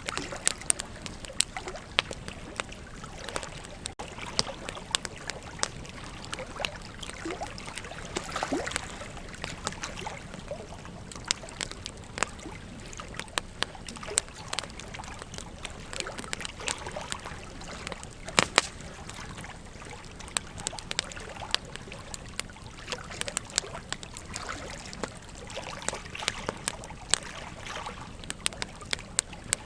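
Burning wood crackling, with frequent irregular sharp pops and snaps over a steady soft hiss; one pop about two-thirds of the way through is louder than the rest.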